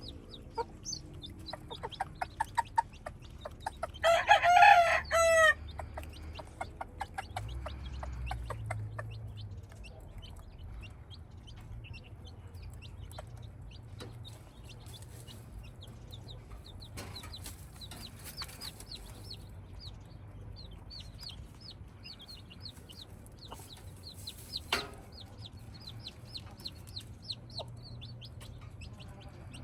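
Gamecock crowing once, loud and drawn out, about four seconds in, with quick clucking before it and many short, high chirps through the rest.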